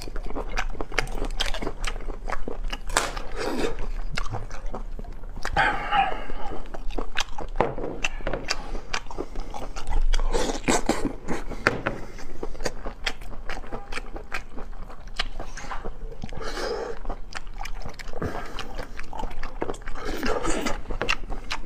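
Close-miked chewing of sea snail (large conch) meat: wet mouth smacks and many sharp clicks, with a few short hums along the way.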